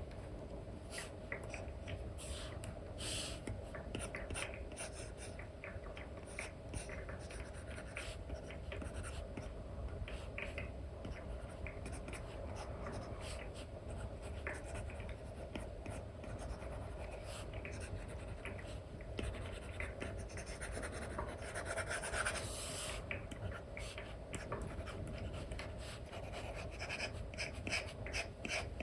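Apple Pencil 2 with an Elecom nib stroking and tapping across an iPad's paper-like screen film: many short, irregular scratchy strokes over a steady low hum.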